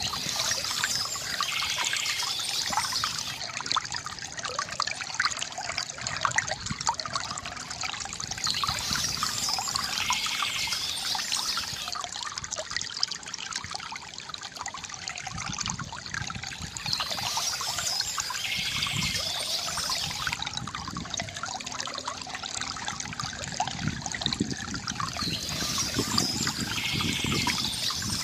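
Water from a bamboo fountain trickling and gurgling steadily into a basin, with a brighter splashing hiss that swells about every eight seconds.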